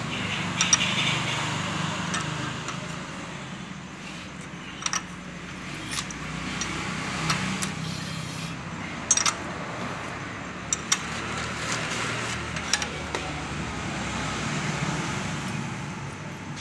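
Scattered sharp metallic clicks and clinks of a hand tool turning the crankshaft of a Hyundai i20 Kappa petrol engine over by hand to bring the timing marks into line, over a steady low background hum.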